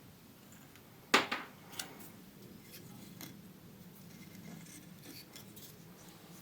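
Hand tools being handled in a workshop: one sharp clink about a second in, followed by a few lighter clicks and taps.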